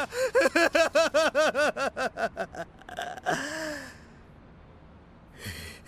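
A person's voice in quick gasping cries, about six a second, that die away about three seconds in and end in one last cry. A brief rush of noise comes near the end.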